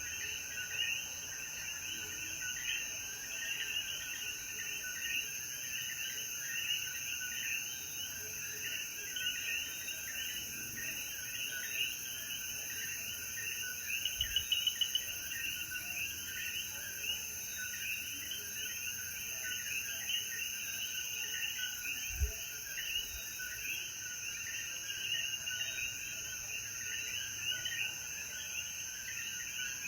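Chorus of many coquí frogs calling over and over, their short rising two-note calls overlapping thickly, over a steady high-pitched trill.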